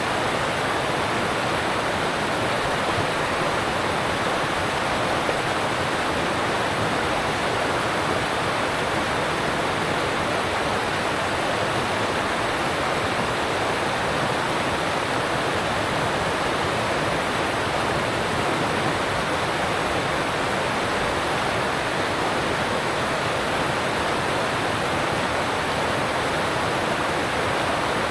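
Alpine stream rushing over rocks: a steady, unbroken rush of water.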